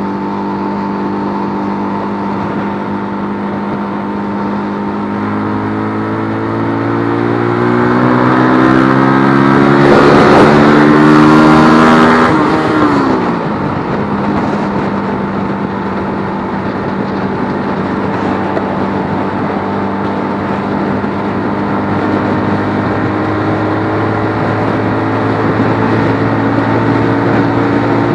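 Keeway RKF125's single-cylinder 125 cc engine running, its pitch climbing slowly for several seconds as it accelerates. It gets louder until, about twelve seconds in, the pitch drops sharply as the throttle closes. It then runs steady, rising gently again near the end.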